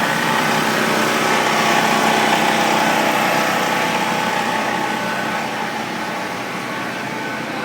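An engine running steadily with a constant hum, fairly loud, easing off a little about five seconds in.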